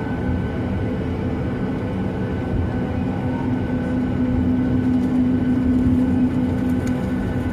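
Boeing 737-800's CFM56 jet engines running at a steady, low power with a constant hum over a rumble.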